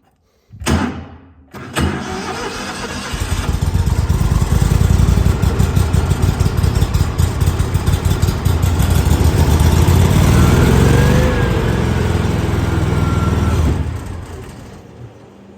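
Small gas engine of an air compressor starting after a couple of short sputters, running steadily with the choke on, then winding down near the end. The compressor is not building any pressure.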